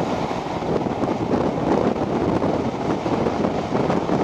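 Wind buffeting a microphone held out of the window of a moving train, over the steady running noise of the carriages on the rails. It is an even rush with no clear beat.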